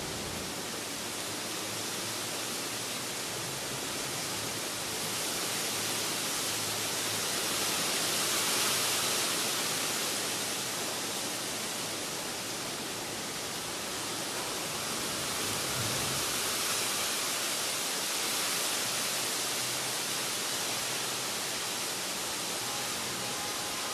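Steady rain falling on a leafy tree, a dense even hiss that swells a little twice.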